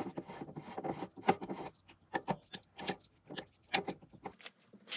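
A run of irregular light clicks, clinks and knocks, like small hard objects being handled and set down, busiest in the first second and a half.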